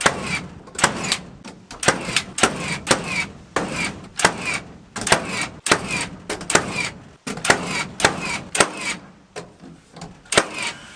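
Hammering on wood: a rapid, uneven run of sharp strikes, about two a second.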